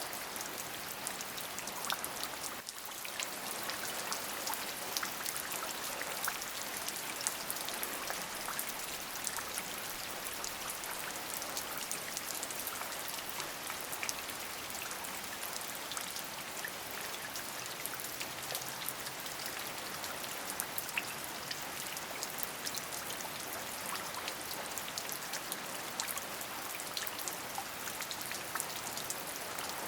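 Steady rain, an even hiss packed with many small, distinct drop ticks, with a brief dip in level about three seconds in.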